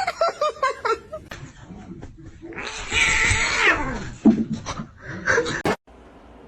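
Cat meowing and yowling: a quick run of short falling calls, then a longer, louder, harsh yowl about three seconds in, and a few more short calls before the sound cuts off suddenly near the end.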